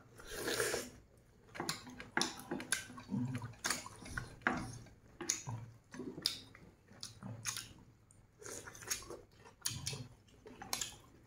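Close-up chewing and wet lip smacks of people eating roasted duck: an irregular run of short, wet clicks and squelches.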